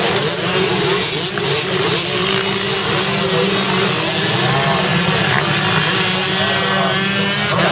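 Motocross dirt bike engines running and revving, with the pitch rising and falling.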